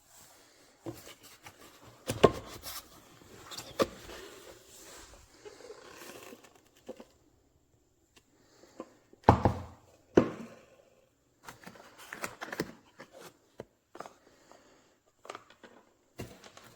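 Irregular handling noises: scattered knocks and clicks with stretches of rustling, the loudest knocks about two seconds in and about nine seconds in.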